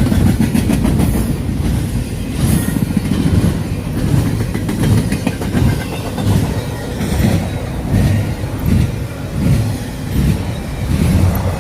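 Double-stack intermodal freight train passing: a steady heavy rumble of well cars, with a rhythmic wheel clatter over the rail joints about once a second.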